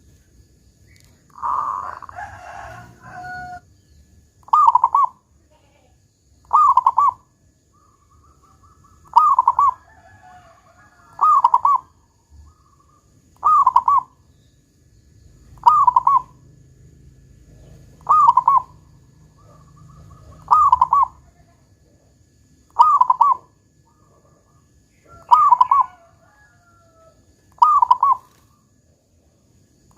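Zebra dove (perkutut) cooing its deep 'kung' song over and over, one short phrase about every two seconds. A louder, rougher sound comes just before the cooing starts.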